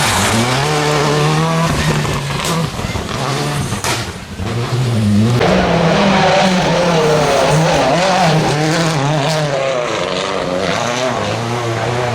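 A World Rally Car's 1.6-litre turbocharged four-cylinder engine running hard, its revs rising and falling through gear changes. The sound drops off briefly about four seconds in, then picks up again with further revving.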